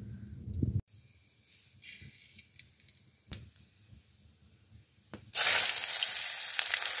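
Chopped tomatoes and onions tipped into hot oil in a wok over a wood fire, setting off a sudden, loud, steady sizzle a little over five seconds in. Before that it is quiet apart from a couple of short clicks.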